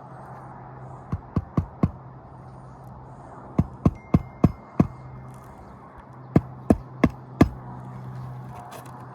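Hammer driving roofing nails into an asphalt shingle being refastened: three runs of four or five sharp strikes, about three a second, one run per nail, over a steady low hum.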